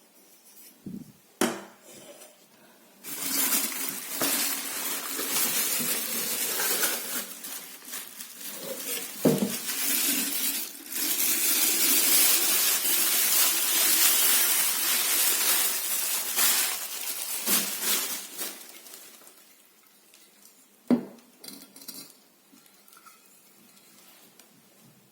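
Teapot and its packaging being handled during unboxing: a long rustling, crinkling noise with a few short breaks, and a few sharp knocks and clinks of the pot, the last one near the end.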